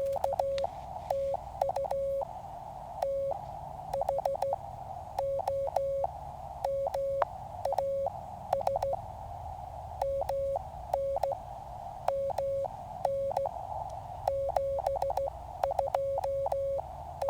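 Morse code keyed on a QCX mini QRP transceiver: a steady sidetone beeps in dots and dashes. The receiver's band hiss mutes under each tone and comes back in the gaps, as it does while the rig is transmitting.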